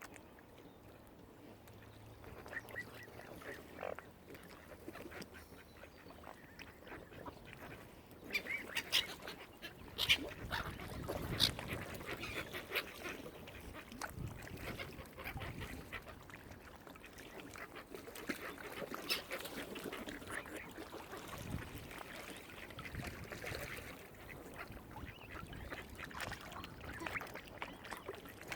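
Waterfowl calling in a series of short calls, becoming busier and louder about a third of the way in.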